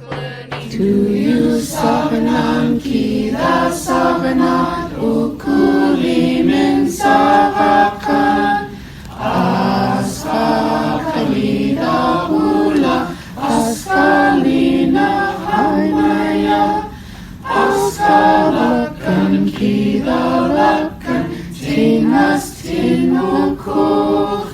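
A choir singing unaccompanied in Unangam Tunuu (Aleut), in short held phrases with brief breaks between them.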